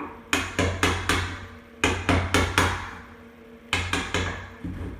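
Hammer tapping in three quick groups of three or four light strokes.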